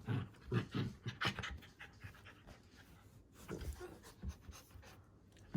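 A white Shiba Inu panting in quick breaths, plainest in the first second and a half, then fainter.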